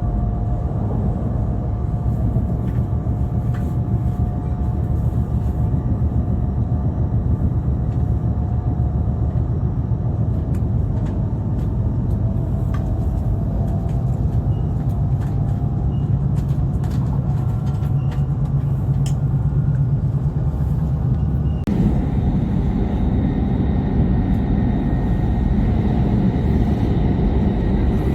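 E5 series Shinkansen running at speed, heard from aboard: a steady low rumble with faint whining tones. About three-quarters of the way through, the noise changes abruptly and becomes brighter, with a steady high whine.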